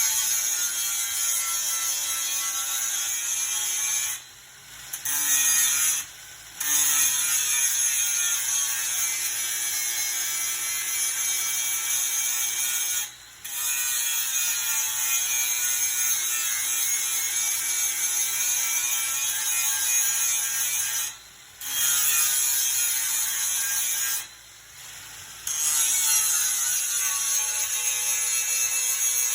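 A power tool running steadily, its pitch slowly sagging and recovering as if under load. It cuts out briefly about five times.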